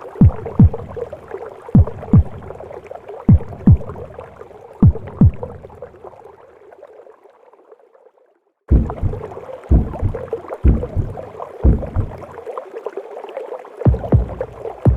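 Womb sound of a mother's heartbeat: paired lub-dub thumps about every second and a half over a steady whooshing noise. It fades out about halfway through, falls silent for a moment, then cuts back in suddenly with the beats repeating.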